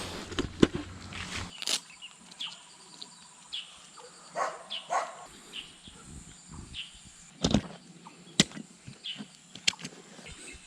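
A motorcycle engine running, cut off about a second and a half in. It is followed by quiet outdoor ambience with scattered clicks and a few short bird calls.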